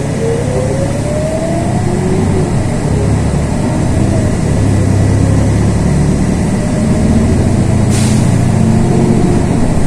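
LiAZ 6213.22 articulated diesel bus under way, heard from inside the cabin: a low engine rumble with drivetrain whines that rise in pitch as the bus picks up speed. A single sharp click about eight seconds in.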